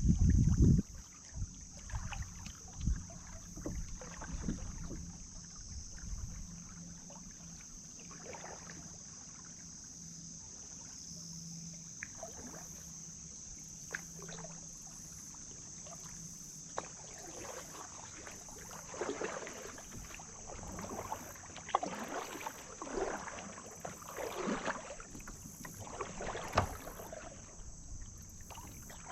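Kayak paddle dipping and splashing in the river water, stroke after stroke, the splashes coming more often in the second half. A brief low rumble on the microphone in the first second is the loudest sound.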